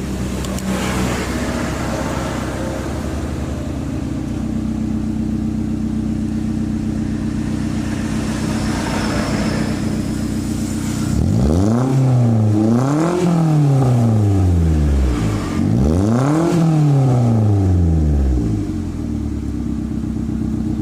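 Toyota Avanza's engine running through a newly fitted bolt-on racing exhaust: it idles steadily, is revved twice a little over halfway through, each rev rising and falling back over about three seconds, then returns to idle.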